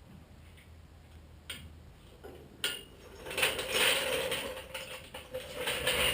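Two sharp metal clicks, then a few seconds of rattling, scraping metal-on-metal handling noise with a faint ring.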